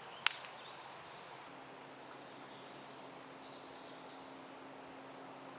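Quiet outdoor ambience with birds chirping in short falling notes, broken about a quarter second in by one sharp crack. A faint steady hum comes in about one and a half seconds in.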